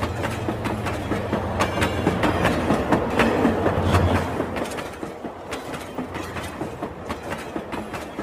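Rail King toy train running, with a steady low motor hum and a rapid clicking, quieter in the second half.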